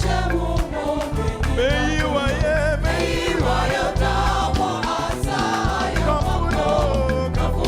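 Gospel worship music: a choir and lead singers with a band, a steady beat underneath.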